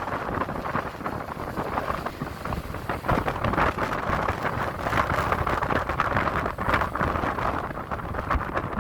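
Strong gusting wind buffeting the microphone, a continuous rushing noise that swells and drops with the gusts.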